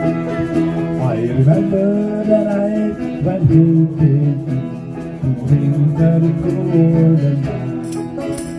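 Irish-style folk band playing an instrumental passage, a guitar accompanying a sustained melody line.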